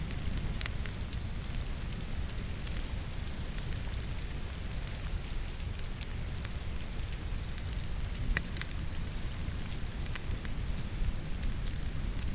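Wood fire crackling in a fireplace together with steady rain: an even rushing rumble with scattered sharp pops and snaps of burning logs.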